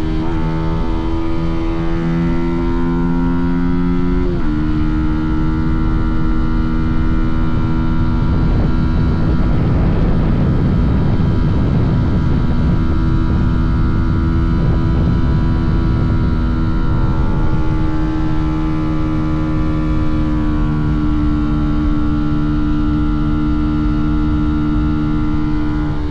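Fantic Caballero 125's single-cylinder four-stroke engine running under way. Its pitch climbs, then drops at once about four seconds in as it shifts up a gear, and it then holds a steady cruise. A rush of noise swells over the engine in the middle, and the pitch eases down near the end.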